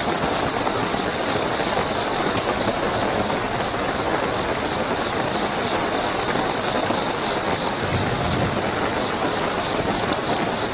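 Steady heavy rainfall with crickets trilling continuously as a thin, high, unbroken tone above the rain.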